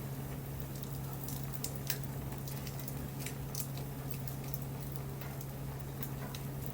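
Wood fire crackling, with irregular sharp pops and snaps and a louder pop about two seconds in, over a steady low hum.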